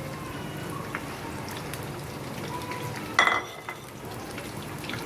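Nargisi koftas, boiled eggs wrapped in spiced minced meat, frying in hot oil with a steady sizzle and small pops. About three seconds in, a utensil clinks sharply against the pan once.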